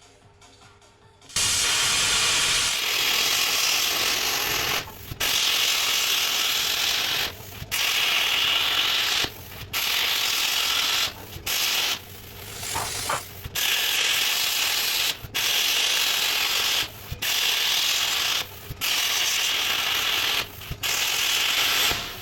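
Hand-held plasma torch cutting or gouging steel in repeated bursts of a second or two. Each burst is a loud, even hiss of air and arc that starts and cuts off sharply.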